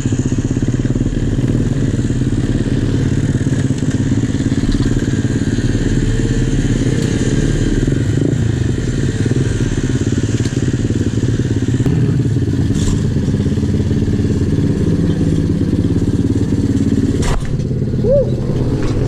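125cc single-cylinder four-stroke pit bike engine running steadily under way on a trail ride, with a few sharp knocks, the loudest near the end.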